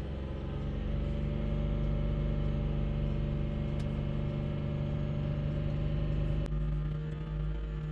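BMW X5 E70 engine held steadily at about 3,000 rpm to circulate oil back to lifters that have run dry from the car sitting, which the owner treats as the cure for its lifter tick. A brief click about six and a half seconds in.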